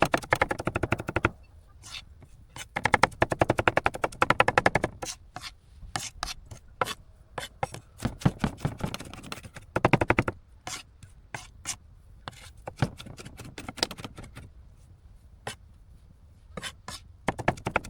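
A knife chopping food on a cutting board. It goes in fast runs of strokes, with single knocks in between.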